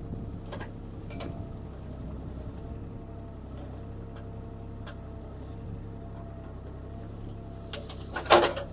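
CAT 303C CR mini excavator's diesel engine running steadily under the operator's control, with a few faint clicks and then a burst of loud, sharp cracks and knocks near the end as the snag is knocked down.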